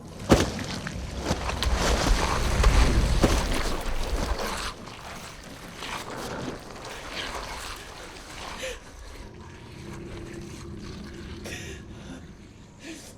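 Storm and floodwater sound effects: a sudden crash about half a second in, then a loud rush of water and wind with a deep rumble that drops off after about four seconds to a quieter steady wash with occasional knocks.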